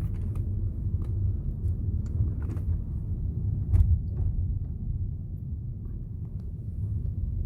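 Low, steady rumble of a car driving slowly, heard inside the cabin, with a few light knocks and one louder thump about four seconds in.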